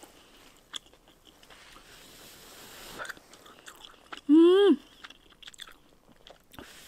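A person chewing a mouthful of noodles, with a few faint clicks of a fork and spoon against a metal pan. About four seconds in comes a short hummed "mmm" that rises in pitch, the loudest sound.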